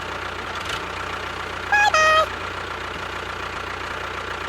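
Small engine idling steadily, with a short two-note horn beep, stepping down in pitch, about two seconds in.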